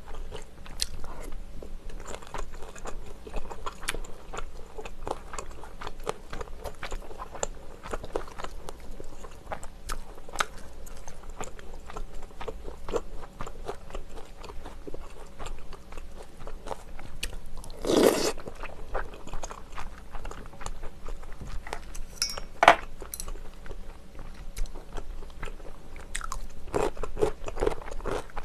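Close-miked chewing of beef and rice-cake soup, with many small wet mouth clicks throughout. One louder, longer mouth sound comes about two-thirds in, and a sharp single click a few seconds later.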